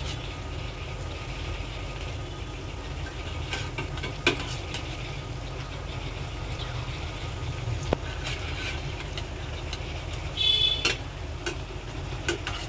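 Bread slices deep-frying in ghee in a steel pan, a steady sizzle, with a few sharp clicks of metal tongs as the slices are turned. A steady low hum runs underneath.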